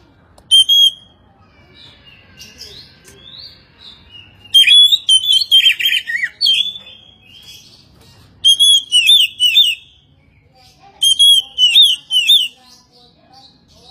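Oriental magpie-robin (kacer) singing: loud, fast warbling phrases of quickly rising and falling whistles. A short phrase comes first, then three longer bouts with brief pauses between.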